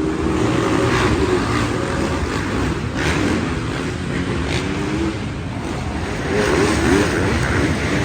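Motocross dirt bike engines revving, their pitch rising and falling repeatedly, with more than one engine heard at once.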